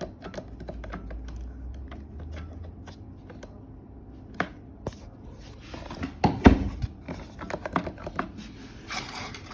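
Clicks, scrapes and knocks of hands working a Kärcher vacuum cleaner and its plug and switch, with one heavier thump about six seconds in. The motor never starts, which the owner puts down to a dead wall socket.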